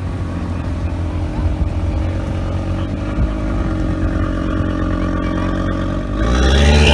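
Audi TT's engine running as the car crawls past close by, a steady low rumble. Near the end it revs up, rising in pitch and loudness as the car pulls away.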